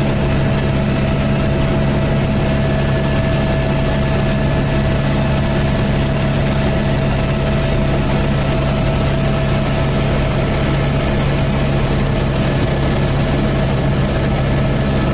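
Helicopter in flight, heard from inside the cabin: a loud, steady drone of engine and rotors with a constant hum and whine that never changes pitch.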